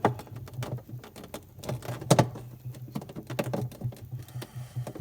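Irregular light clicks and taps of small plastic panel clips being handled and fitted, with one louder click about two seconds in. A low steady hum runs underneath.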